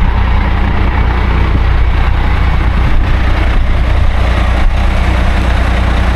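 The diesel engine of a 1999 International 5000 manure truck idling steadily.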